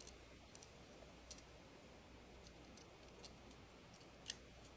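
Near silence with a few faint small clicks from handling a die-cast toy car, one a little louder near the end.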